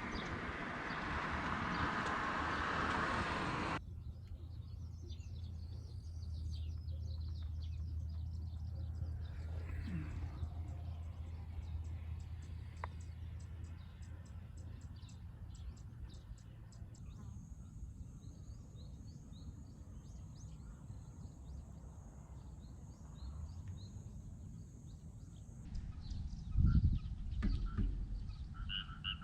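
Birds chirping and tweeting over a faint low hum, after a rush of noise that cuts off abruptly about four seconds in; a steady high whine runs through the later part.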